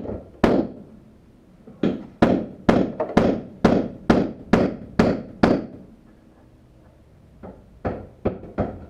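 Repeated sharp hammer blows, about two a second, each with a brief ringing tail. After a pause, four lighter blows follow near the end.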